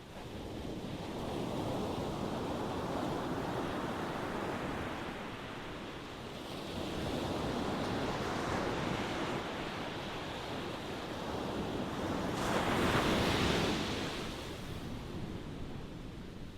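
Ocean waves washing in and drawing back in slow swells. The loudest wave breaks about 13 seconds in with a brighter hissing wash.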